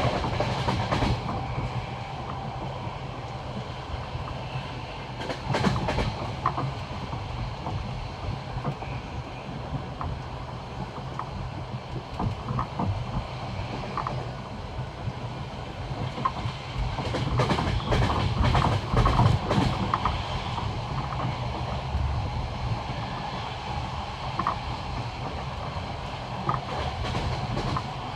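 Railway carriage wheels clacking over the rail joints of jointed track, with groups of knocks every few seconds over a steady rumble of the running train.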